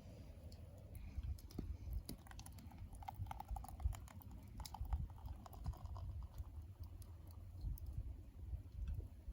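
Burning wood crackling and popping in a secondary-combustion wood stove: many quick, irregular snaps over a steady low rumble.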